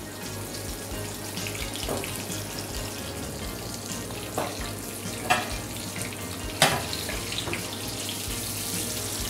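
Breaded pork cutlet frying in hot oil in a steel pan, a steady sizzle, with a few sharp clicks in the second half.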